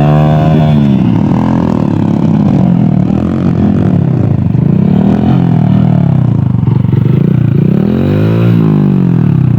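Dirt bike engines revving, the pitch climbing and falling again and again.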